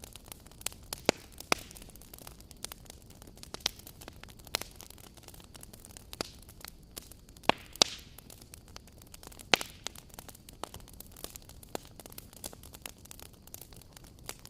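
Wood fire burning with irregular crackles and sharp pops over a low hiss, the louder pops about a second in, around the middle, and a little later.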